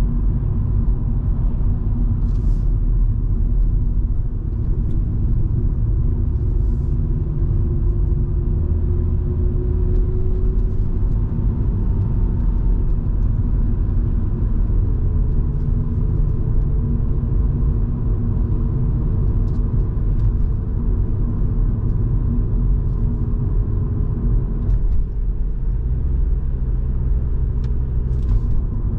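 Volvo V70 2.5T's turbocharged five-cylinder engine and tyre rumble, heard from inside the cabin while driving at a steady pace. The engine note climbs slightly in pitch partway through.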